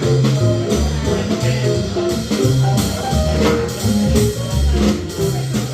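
Jazz trio playing live: a low bass line stepping from note to note under higher melody notes, with regular cymbal-like strikes on top.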